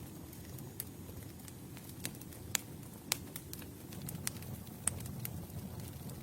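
Campfire burning with a steady low rumble of flames and irregular crackles, a few sharper pops standing out about two and a half, three and five seconds in.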